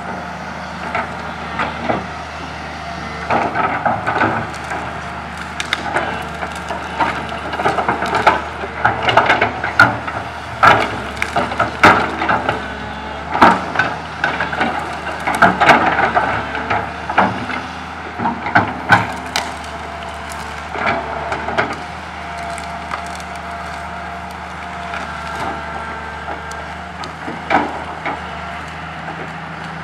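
Komatsu PC200 excavator's diesel engine running steadily under repeated cracking and snapping of tree branches as its bucket gathers and loads them. The snapping is thickest in the middle and eases off near the end, leaving mostly the engine drone.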